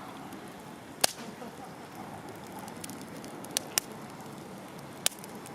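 Wood campfire crackling, with a steady low hiss and four sharp pops, two of them close together.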